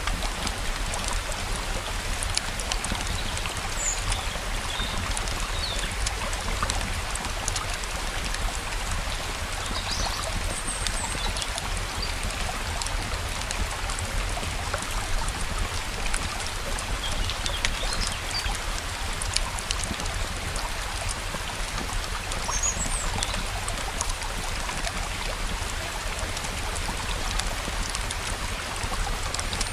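Steady flowing stream water mixed with rainfall, with short bird chirps every few seconds and scattered sharp little ticks over the top.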